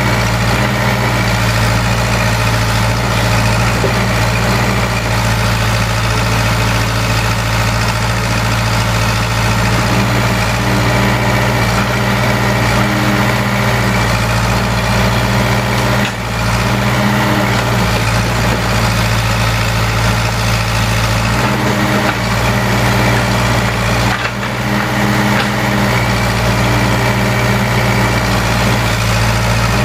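Case 580K backhoe loader's four-cylinder diesel engine running steadily at a constant speed, with a couple of brief dips in level.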